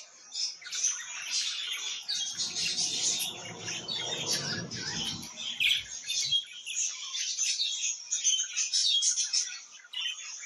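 Several budgerigars chirping and warbling in a continuous, busy chatter of quick high notes. From about two to six seconds in, a low rustling sound runs under the chatter.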